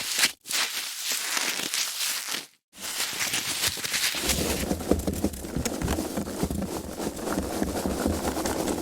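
Foam packaging being handled: a dense, continuous crackling broken by two short gaps in the first three seconds. From about four seconds in, a deeper rubbing sound joins it.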